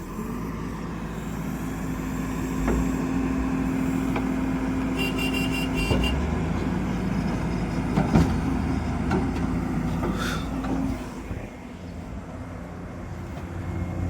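Heavy diesel engine running steadily. It works harder from about a second and a half in and eases off about eleven seconds in. A few knocks and a brief high tone about five seconds in sit over it.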